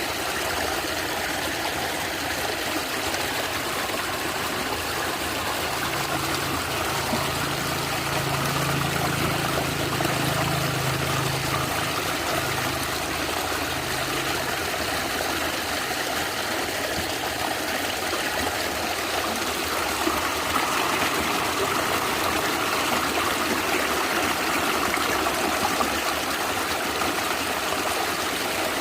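Natural stream gurgling and trickling steadily over stones.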